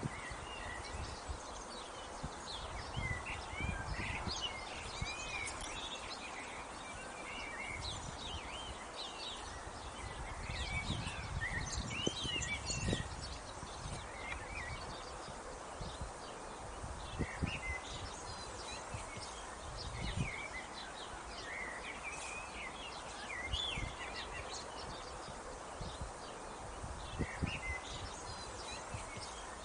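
Small songbirds chirping and singing over a steady outdoor background hum, with occasional low rumbles.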